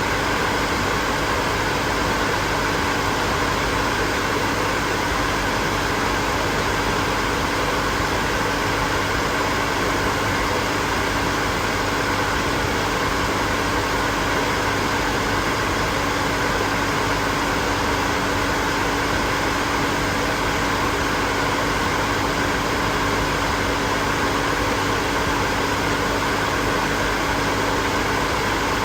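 Hair dryer running steadily: an even rush of air with a constant motor hum, unchanging throughout.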